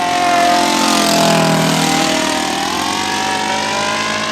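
Engine of a radio-controlled model seaplane on a low flyby, running at high revs. It is loudest about a second in, and its pitch sags slightly after that as it passes.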